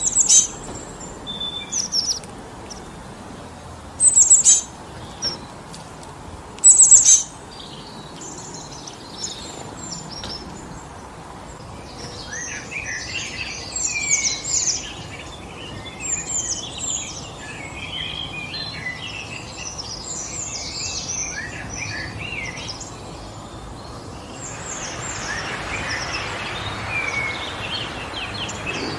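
Birds calling over a steady background of forest wind: a few loud, sharp, falling calls in the first seven seconds, then many birds chirping at once. About twenty-five seconds in, a rush of wind swells up while the chirping goes on.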